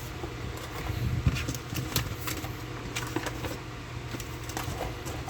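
Plastic model kit runners and their bags being handled and set down: scattered light clicks and rustles over a steady low hum.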